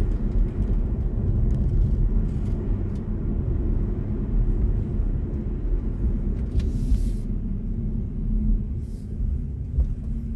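Steady low road and tyre rumble inside the cabin of a moving BMW i4 M50 electric car, with a brief hiss about two-thirds of the way through.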